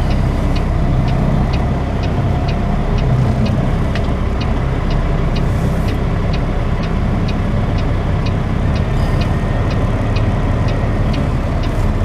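Semi-truck's diesel engine running at low speed, heard from inside the cab, with a regular tick about twice a second and a few short hisses.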